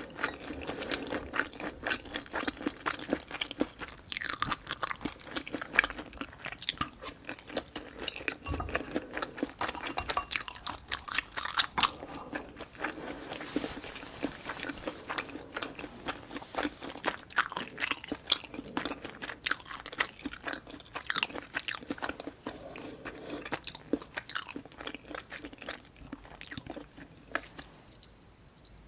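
Close-miked chewing: a dense, irregular run of small crunches and clicks as food is bitten and chewed, dying down just before the end.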